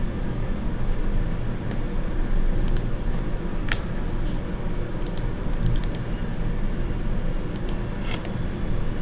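Irregular computer keyboard and mouse clicks, a dozen or so scattered sharp taps with a small cluster about halfway through, over a steady low hum.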